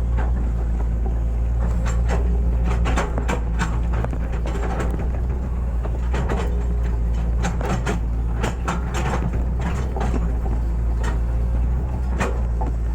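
Hitachi excavator's diesel engine running steadily under load, with many short knocks and scrapes from the machine at work as it digs.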